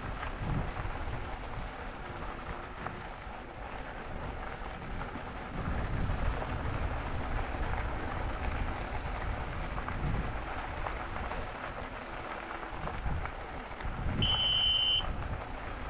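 Wind buffeting the microphone and tyre rumble as an e-bike rides along the trail, with uneven low gusts. Near the end a short, steady high beep sounds once.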